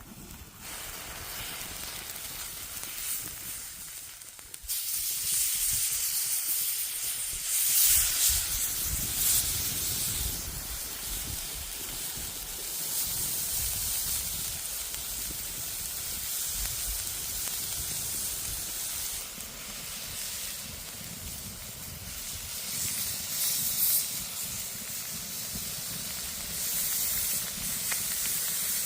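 Food frying in hot oil over a campfire: a steady sizzling hiss that jumps louder about five seconds in, as if more food went into the oil, and then carries on with small swells.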